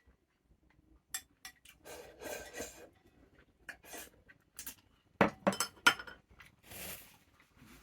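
Tableware clinking and scraping as a meal is eaten: utensils knocking and scraping against bowls and dishes, with three sharp, loud clinks close together about five seconds in.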